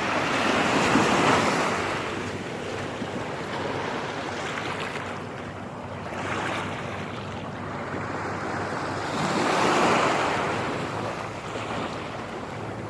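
Ocean waves washing in on the shore, swelling loudest about a second in and again near the end, with wind on the microphone.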